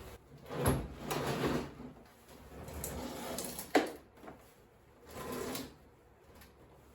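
An old TV set being handled and turned over: a few scraping, rubbing sounds and one sharp knock just before four seconds in.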